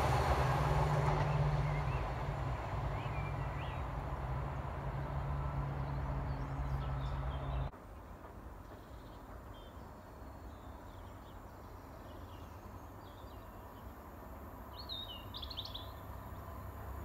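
Low rumble of a diesel train fading as it draws away, with birds chirping; it cuts off abruptly partway through. Quieter outdoor background follows, with scattered bird chirps and a short burst of birdsong near the end.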